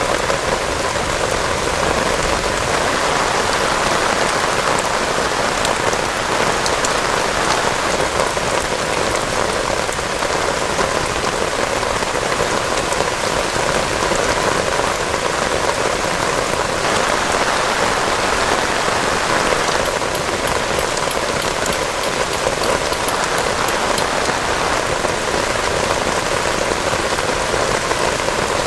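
Heavy rain falling steadily, an even rushing patter with a few faint drip ticks.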